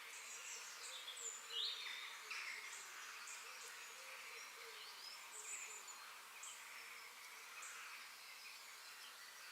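Faint birdsong: several birds chirping and whistling, with one louder falling whistle about a second and a half in, over a steady high hum of insects.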